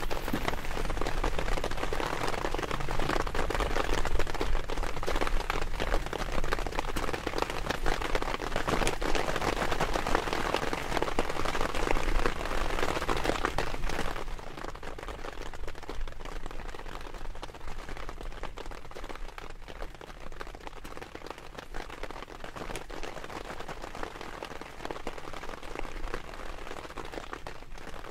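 Rain falling on a surface, a dense hiss of many small drop hits. It is heavier for the first half and turns noticeably lighter about halfway through.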